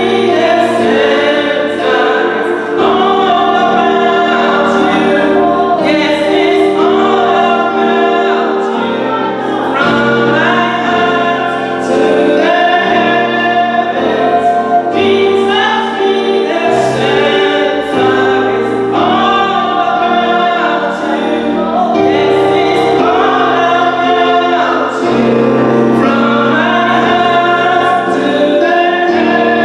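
Gospel choir singing with accompaniment, sustained chords under the melody.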